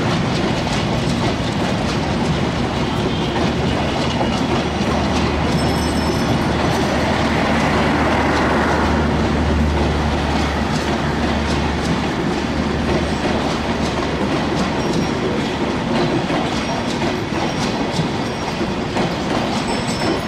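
Bangladesh Railway intercity express train passing close by, its coach wheels clattering steadily over the rail joints. A deep hum swells in the middle and eases off again toward the end.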